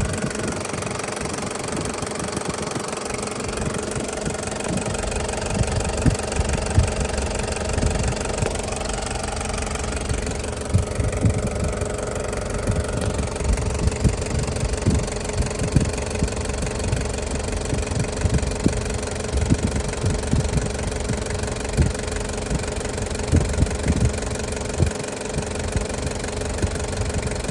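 Toyota HiAce turbo-diesel engine idling steadily with diesel clatter. Irregular dull low thumps stand out now and then over the steady running.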